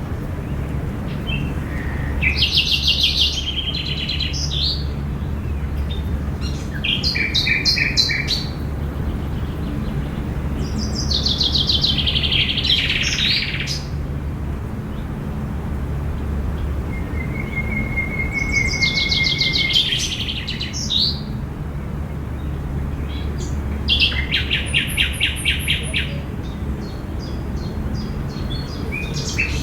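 Songbirds singing in a park: about five bursts of rapid, repeated chirping notes a few seconds apart, with one thin held whistle in the middle, over a steady low background rumble.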